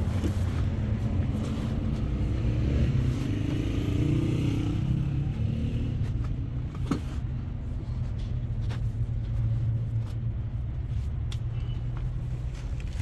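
A car running, with a steady low engine and road rumble that swells briefly about four seconds in, and a few light clicks.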